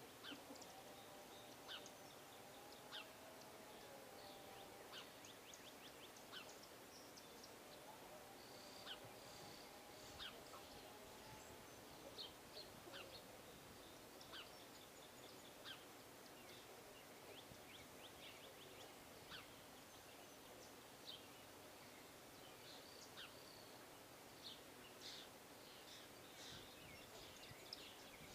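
Faint chirps and short calls of small songbirds, scattered irregularly.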